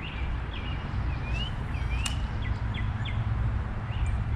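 Small birds chirping, a string of short quick notes with a few rising glides, over a steady low rumble.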